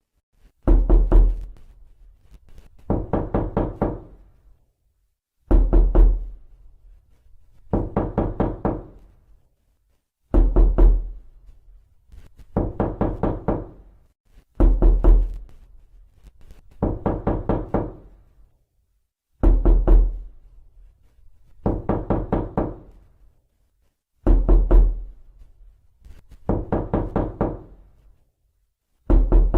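Knocking on a door: short clusters of several rapid knocks, repeating about every two seconds, some clusters with a heavy low thud.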